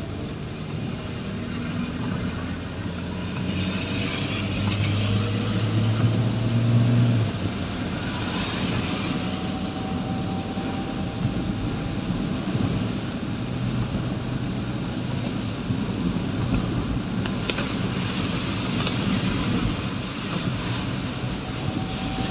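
Motor vehicle running, with a steady low engine hum and road noise. The hum is loudest about four to seven seconds in, and hissing swells of passing traffic come and go.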